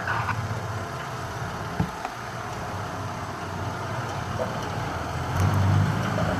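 Heavy earthmoving machinery engine running steadily at low pitch, with a single short knock a little under two seconds in and the engine swelling louder for a moment near the end.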